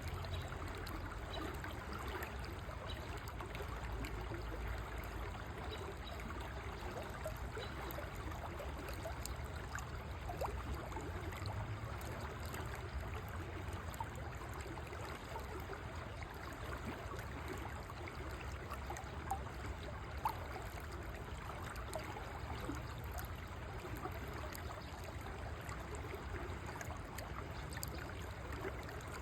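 A river flowing steadily, with continuous trickling and gurgling water and a low rumble underneath.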